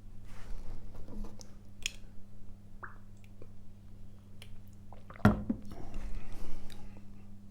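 Ice cubes clinking and crunching in short, irregular bursts, with one sharp crack about five seconds in, over a steady low hum.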